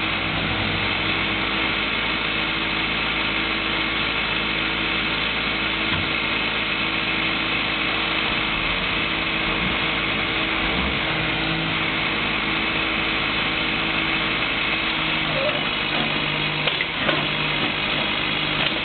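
Diesel engine of heavy road-digging machinery running steadily under load. Its tone shifts a little about three-quarters of the way through, and a short knock or clank comes near the end.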